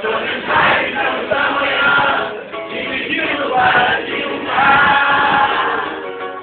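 Many voices singing a song together, with musical backing.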